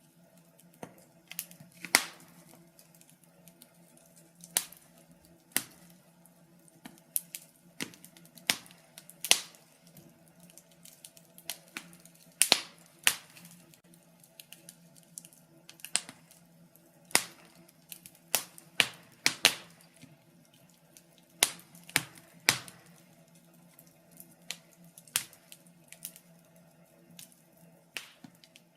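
Wood fire crackling in a fireplace: irregular sharp pops and snaps of burning timber, a few much louder than the rest, over a faint steady hum.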